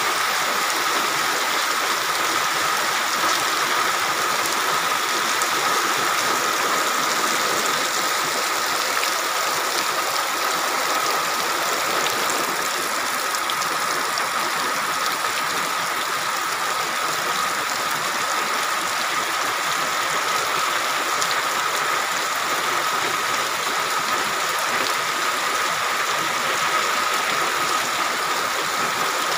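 Heavy tropical rain falling steadily, an even continuous hiss of downpour with water running over the ground, and a faint steady tone underneath.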